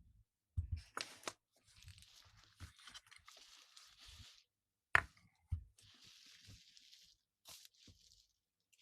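Close-miked ASMR rustling: a few sharp crunching crackles with soft hissing rustles between them, from something being handled or rubbed right at the microphone.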